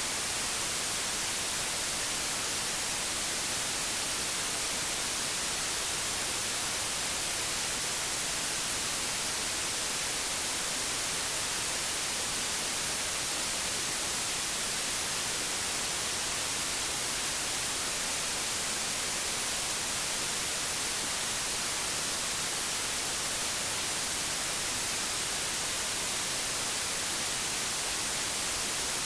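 Steady television static: an even hiss, brightest in the high end, with no change in level.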